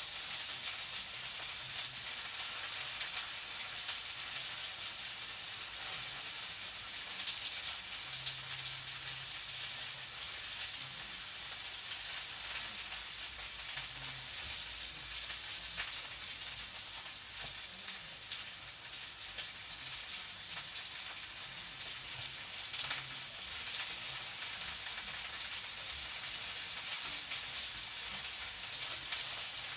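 Food frying in a pan: a steady sizzle with fine crackles and pops throughout.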